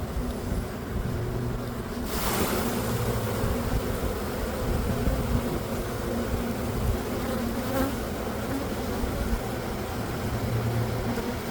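Honeybees buzzing in a steady, dense hum around an open hive, with a short rush of noise about two seconds in.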